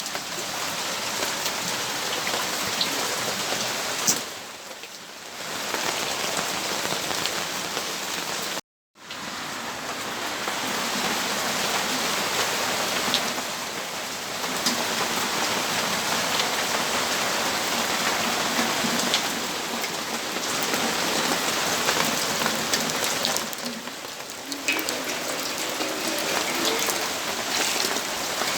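Steady rainfall: an even hiss of rain with scattered drop ticks. The sound dips briefly twice and cuts out completely for a moment about nine seconds in.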